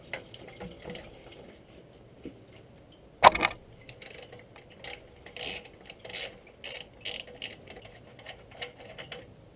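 Hand tool clicking in short repeated strokes, loosening the clip on a Land Rover 300Tdi's bottom radiator hose before draining the coolant, with one sharp metallic knock about three seconds in.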